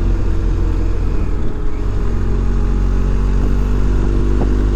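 Adventure motorcycle engine running steadily under way, heard from on the bike with wind rushing past; the engine note shifts about two seconds in.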